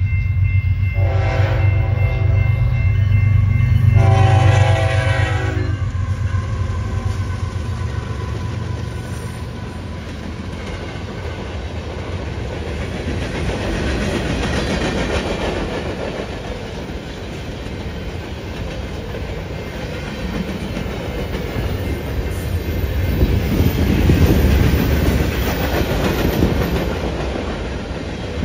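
Diesel locomotive passing close by, sounding its horn in two blasts over a heavy engine rumble. The cars then roll past with steady wheel noise and clickety-clack on the rail joints.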